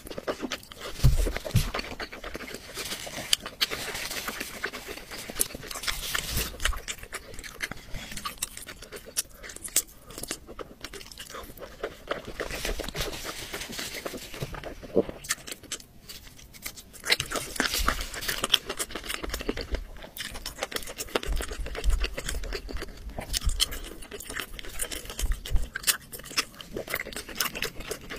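A person eating chicken close to the microphone: steady chewing with many quick crunches and mouth clicks, and a few dull low knocks.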